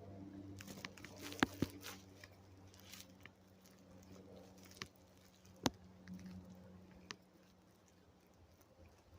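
Scattered sharp clicks and taps of gear being handled, the loudest a pair about a second and a half in and a single one near the middle, over a faint low steady hum.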